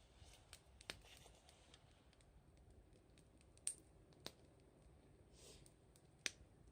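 Wood fire crackling quietly, with four or so sharp, widely spaced pops from the burning firewood.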